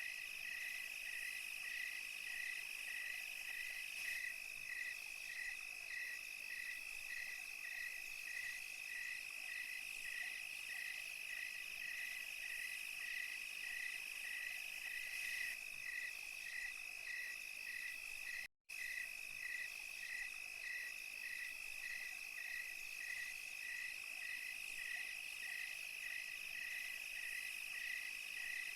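Night insect chorus of crickets and other insects: a steady high trill with a regular chirp beneath it, repeating more than once a second. The sound cuts out completely for a split second about two-thirds of the way through.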